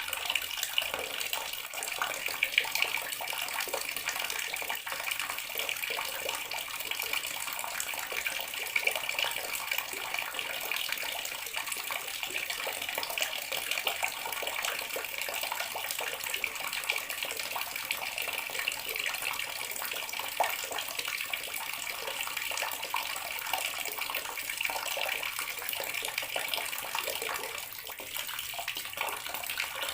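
Bathroom water tap running steadily, a continuous splashing hiss of flowing water, dipping slightly for a moment near the end.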